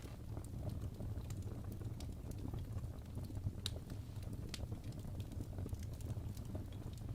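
Fireplace fire with burning logs crackling: irregular sharp pops and snaps over a steady low rumble of the flames.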